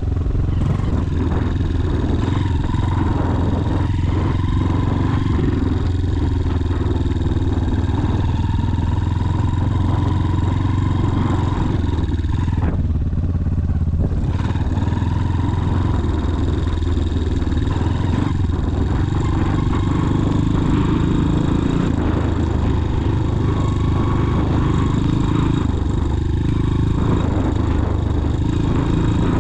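Motorcycle engine running steadily while riding, with loud even engine noise throughout.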